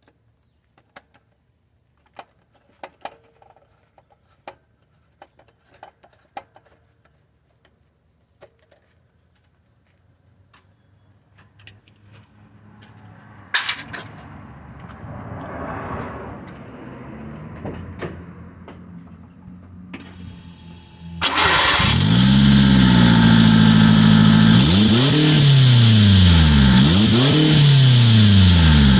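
Scattered clicks and handling noises. About three-quarters through, a 1995 Subaru Sambar's supercharged engine comes in suddenly and runs loud through a Yoshimura universal motorcycle muffler with its dB killer installed. It is revved twice near the end, each rev rising and falling in pitch.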